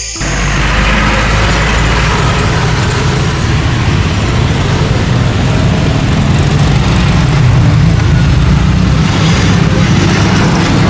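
Jet airliner taking off: loud, steady engine noise with a deep rumble underneath, starting suddenly.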